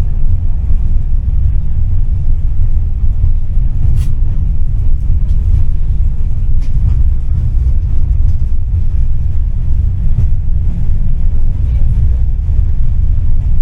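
Tram in motion heard from inside the car: a steady low rumble, with a sharp click about four seconds in.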